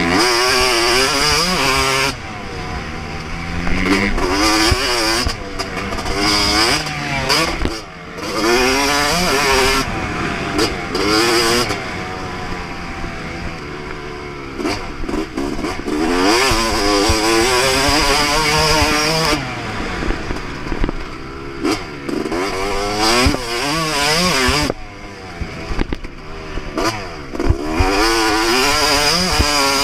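2024 Yamaha YZ250 two-stroke motocross engine at full throttle on a track: the pitch climbs and falls again and again as the throttle is opened and chopped through gear changes and corners, with short drops in loudness every few seconds.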